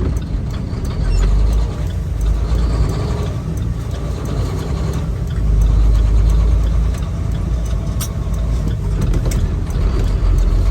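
Semi truck's diesel engine running under way, a deep rumble heard from inside the cab that swells about a second in and again about halfway through.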